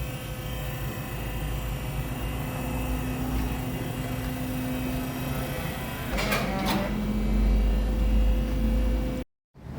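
A steady machine hum with a low rumble, broken about six seconds in by a short scraping noise and cut off abruptly near the end.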